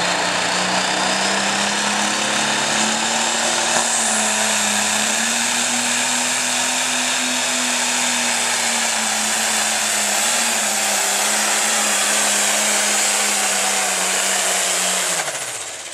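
Light pro stock pulling tractor's turbocharged diesel engine at full throttle under load, a steady high engine note with a turbo whistle that climbs about four seconds in and holds. The engine note sags slightly late in the run and cuts off sharply near the end as the tractor is throttled down.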